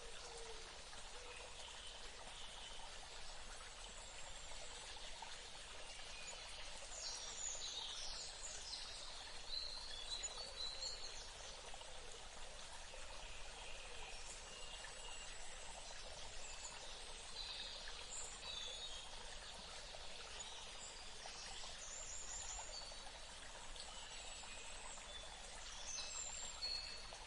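Steady running water, like a stream, with birds chirping and calling over it, their calls clustering about a quarter of the way in and again near the end.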